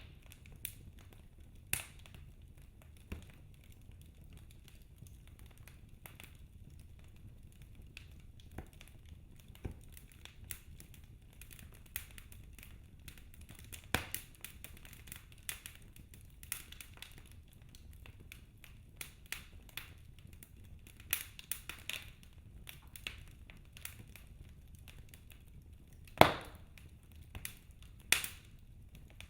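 Wood logs burning in a fireplace, crackling with scattered sharp pops and snaps over a faint low rumble of the flames. The loudest pop comes near the end.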